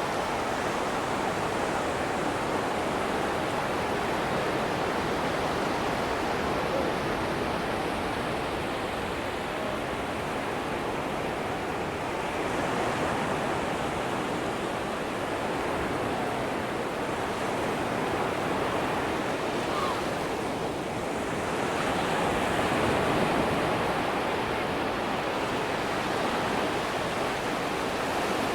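Atlantic surf washing onto a sandy beach, a steady rush of breaking waves that swells gently a few times.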